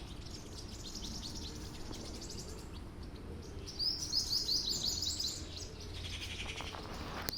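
Small songbirds chirping: faint high chirps, then a quick run of short, repeated, down-slurred high notes about four seconds in. A steady low background rumble runs underneath, and there is a sharp click just before the end.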